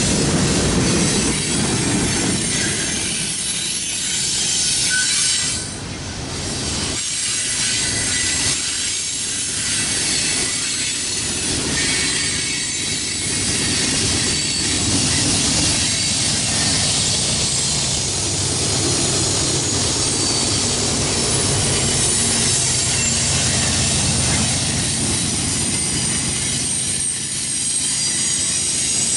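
Norfolk Southern freight train's tank cars and covered hoppers rolling past close by: a steady, loud rumble and clatter of steel wheels on rail, with a short dip in loudness about six seconds in.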